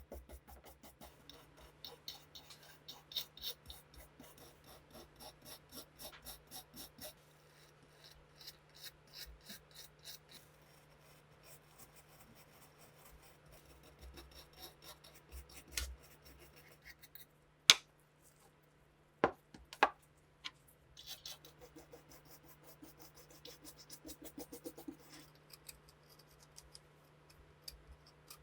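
Hand scraping and rubbing strokes, several a second, on the parts of an old Frommer pistol under restoration, with three sharp clicks a little past halfway and a faint steady hum underneath.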